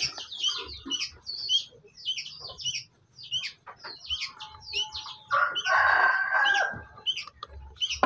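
Birds calling: a rapid series of short, high chirps, with a longer held call from about five to seven seconds in.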